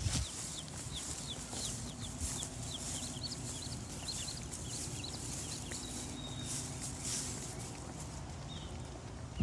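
Small birds chirping: many short, high chirps throughout, over a faint steady low hum.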